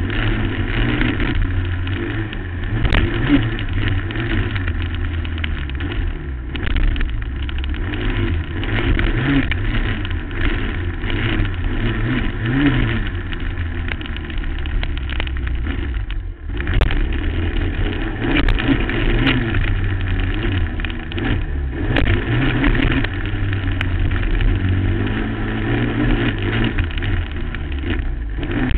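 2008 Suzuki LT-R450 quad's single-cylinder four-stroke engine revving up and dropping back repeatedly under hard riding, heard from a helmet-mounted microphone with wind noise. The engine note cuts out sharply for a moment a little past halfway before revving again.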